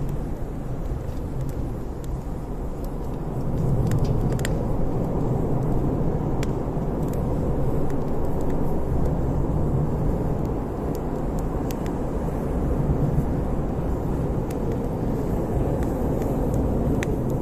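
Campfire burning: a steady low rumble with scattered sharp crackles and pops.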